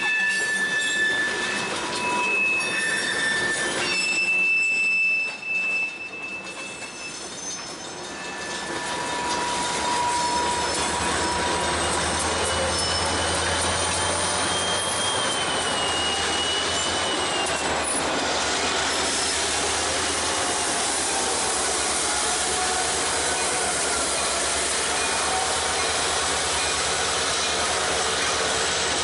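Steel freight-car wheels squealing on curved switching track, in broken high-pitched tones for the first several seconds. Then an EMD diesel switching locomotive's engine comes up into a steady low rumble, with fainter squeals gliding over it.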